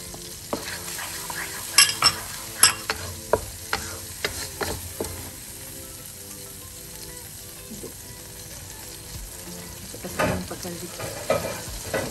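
Curry spice paste frying in a pan, being fried until the oil separates. A wooden spatula scrapes and taps the pan, with two loud knocks about two seconds in, a quieter stretch of plain frying in the middle, and stirring again near the end.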